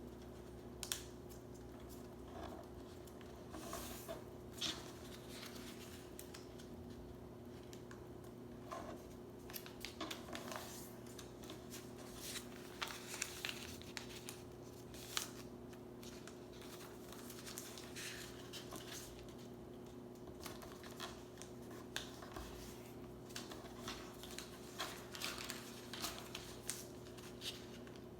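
A sheet of paper being handled, folded and creased by hand: scattered rustles and sharp crinkles, over a steady low hum.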